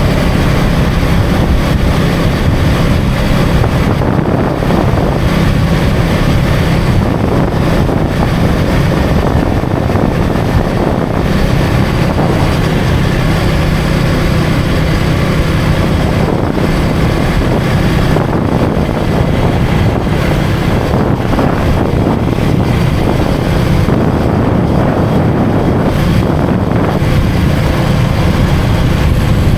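KTM Duke 250 single-cylinder engine running at a steady cruising pitch, with loud wind buffeting the microphone.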